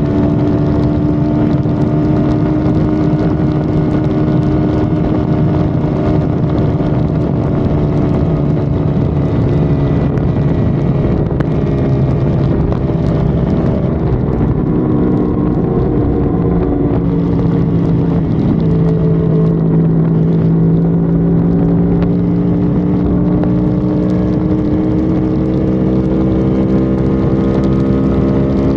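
Honda Civic FD's engine heard onboard at highway speed, with road and wind noise. The engine note drops a little about halfway through, then slowly climbs again.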